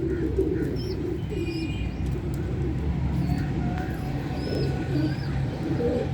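A flock of pigeons or doves cooing continuously, with short higher chirps from other birds scattered through.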